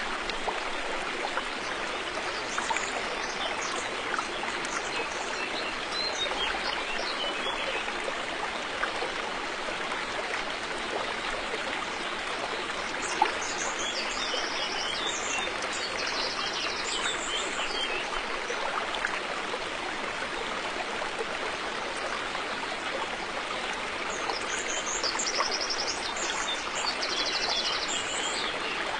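Steady rushing of a flowing river. High bird calls sound over the water in three short bouts: near the start, around the middle and near the end.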